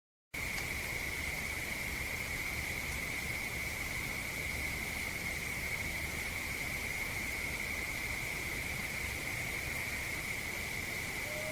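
Insects trilling steadily in one unbroken high note over faint outdoor hiss, starting abruptly a moment in. Right at the end a lower, slightly falling tone begins, which the recordist takes for a possible distant Bigfoot howl.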